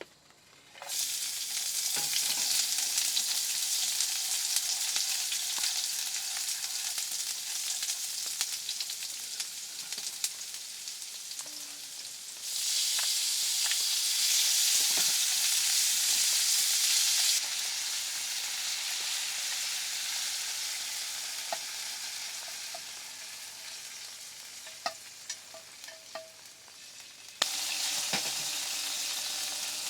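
Food sizzling as it fries in a pan, a steady hiss with a few light clicks of a utensil. It gets abruptly louder and softer a few times.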